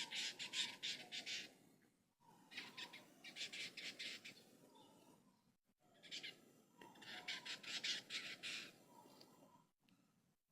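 Lined seedeater (bigodinho) singing: three phrases of fast, closely repeated high notes, each about two seconds long, with short pauses between them.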